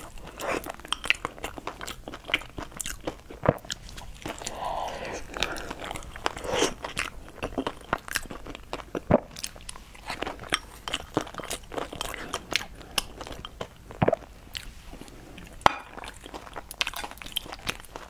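A person chewing and biting food close to the microphone, with many short, sharp clicks and crunches.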